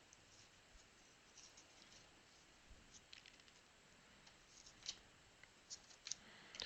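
Faint, short scrapes and ticks of trading cards being handled and slid off one another, a few at a time and more often in the second half.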